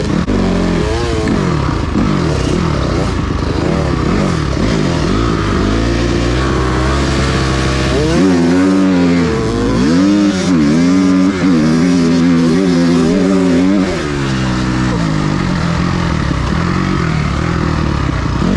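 Dirt bike engine revving hard and easing off again and again as it is ridden along a trail, its pitch rising and falling over and over. It is loudest about halfway through.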